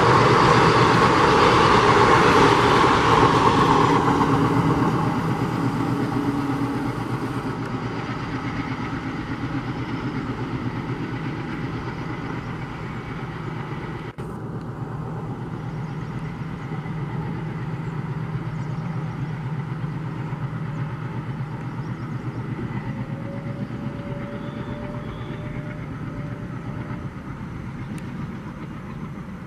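Passenger train rolling past on the track, loud for the first few seconds and then fading away to a steady distant rumble.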